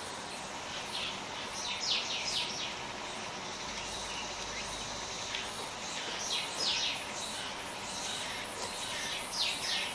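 Small birds chirping over a steady background hiss. They call in three quick runs of short, falling high notes, a few seconds apart.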